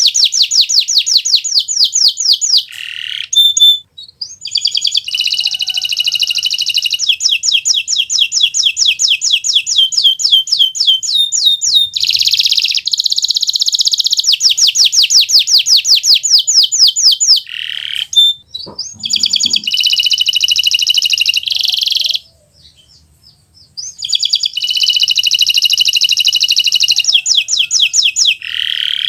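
Kenari Nusantara canary singing non-stop (gacor) in long, loud phrases of rapid trills and quickly repeated notes. The song breaks off briefly about four seconds in, again near eighteen seconds, and for a second or two about twenty-two seconds in.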